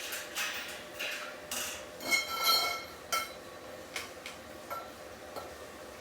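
Metal parts and tools clinking and knocking against each other, about a dozen light knocks with a brief metallic ring around two seconds in that is the loudest, then fainter knocks toward the end.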